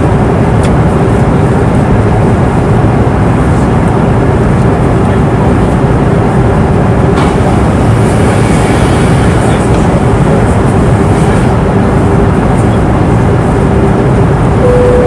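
Steady airliner cabin noise in flight: an even, loud rushing drone with a faint steady hum underneath and a couple of faint clicks.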